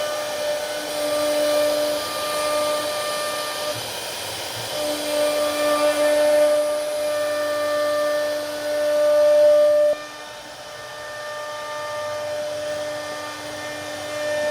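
CNC router spindle running at high speed with a steady whine over a hiss as the bit cuts wood; the sound drops sharply about ten seconds in, where the loudest tone cuts off.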